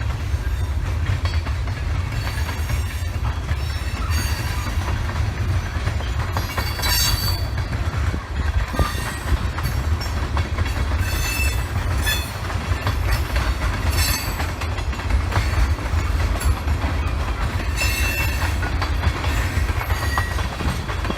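Freight cars of a Canadian Pacific train rolling past on the rails with a steady low rumble. Short, high-pitched wheel squeals recur every second or two.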